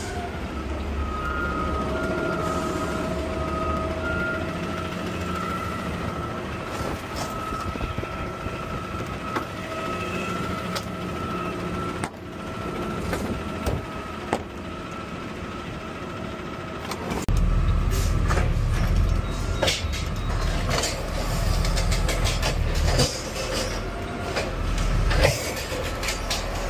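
Garbage truck's diesel engine running while its hydraulic can-handling arm works, with a steady hydraulic whine. About two-thirds through the engine grows louder under load, and repeated knocks and clanks of the cans being handled and emptied come in.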